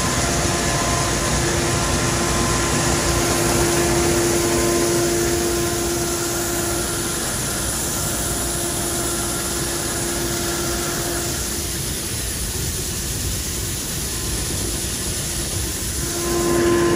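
Heavy diesel farm or truck engine running steadily under a constant hum of noise, with a steady whine that fades out about twelve seconds in and comes back near the end.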